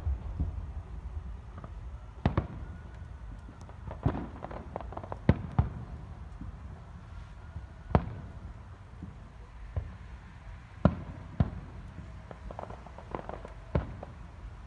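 Aerial firework shells bursting in an irregular series of about a dozen sharp bangs, some in quick clusters, over a low steady rumble.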